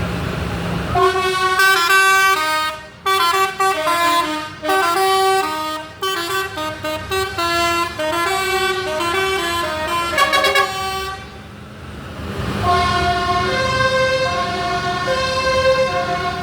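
A musical horn on a passing vehicle playing a tune in quick stepped notes, pausing briefly before a second tune starts about twelve seconds in, over the low running of engines.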